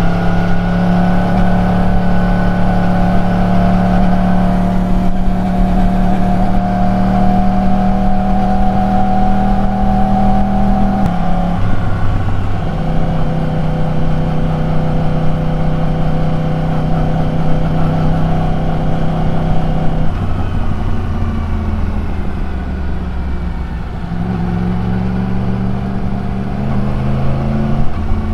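Yamaha YZF-R1 crossplane inline-four engine and exhaust while riding, holding a steady engine speed. The pitch drops suddenly about a third of the way in and again about two-thirds in, then climbs again near the end.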